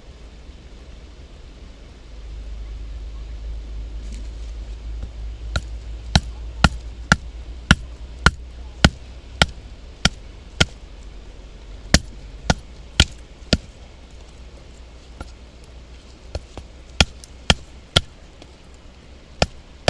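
Batoning firewood: a stick strikes the spine of a Mora knife driven into a log, in a run of sharp knocks about two a second, pausing briefly and then resuming. The hard wood resists, so the blade goes in little by little. Low wind rumble on the microphone near the start.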